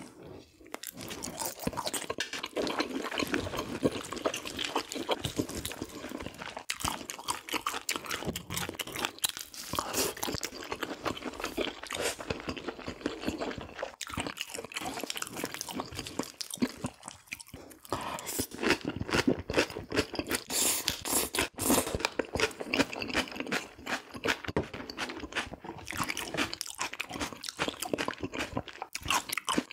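Close-miked chewing and biting of sous-vide pork knuckle (jokbal): continuous wet mouth clicks and crunches with short pauses between bites.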